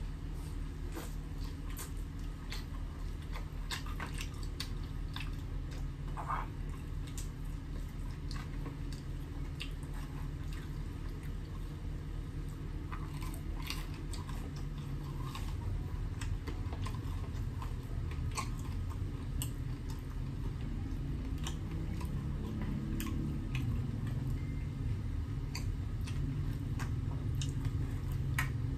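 A person chewing and biting food, with many scattered short mouth clicks, over a steady low hum.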